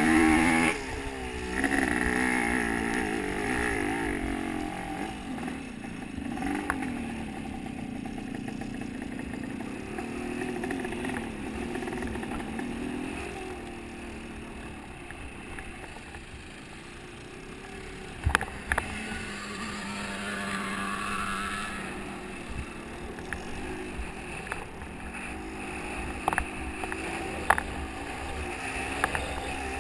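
Motocross motorcycle engines revving, the pitch rising and falling as the bikes come and go, with a few sharp knocks about eighteen seconds in.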